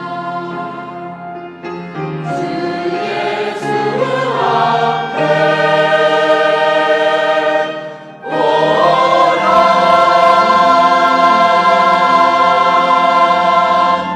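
Church choir singing the closing phrases of a hymn. After a short break about eight seconds in, the voices come back loud and hold a long final chord that ends near the end.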